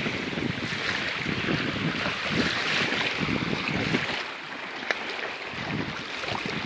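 Wind buffeting the microphone over river waves lapping and splashing against a boat, in irregular surges. A single sharp knock about five seconds in.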